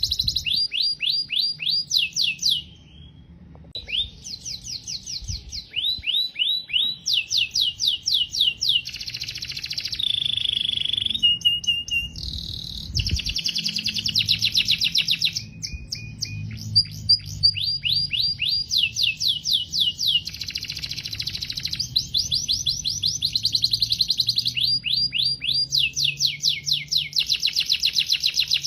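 Domestic canary singing a long continuous song of rapid trilled phrases, each a fast run of repeated notes, the phrases changing every second or two with some held whistled notes between them. A brief pause comes about three seconds in.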